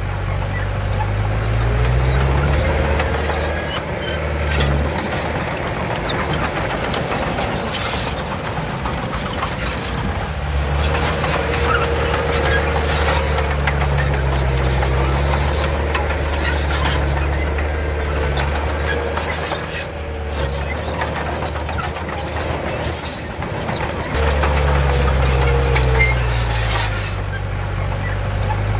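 Komatsu D31 crawler bulldozer at work: its diesel engine running under changing load, the engine note rising and falling several times, with a wavering squeal over it through much of the time.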